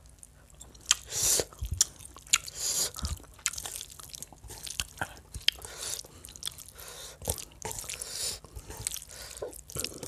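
Close-miked wet chewing and lip smacking of curry and rice, with many sharp smacks and clicks, and the squish of fingers mixing rice and gravy on a steel plate.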